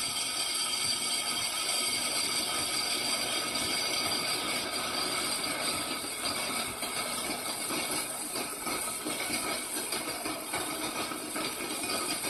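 Electric drill running steadily, boring a pin hole through the steel tang of a hand-forged knife, with a continuous whine made of several high tones over a noisy hiss.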